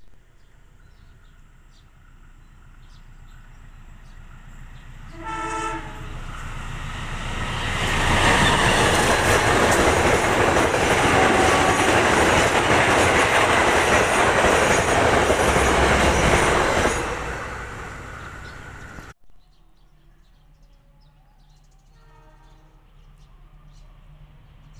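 A train horn sounds briefly, then the train passes close by: a loud rush of wheels on rails that builds up, holds for about nine seconds and fades away. After a sudden cut, a horn sounds briefly again near the end.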